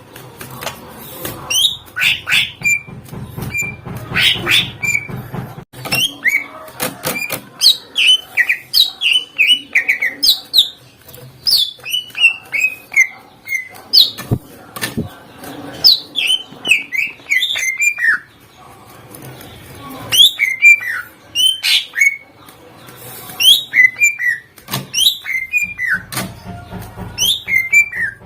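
Cucak ijo (green leafbird) singing loudly in rapid phrases of sharp, downward-sliding whistled notes and chirps, with a few short pauses between bursts.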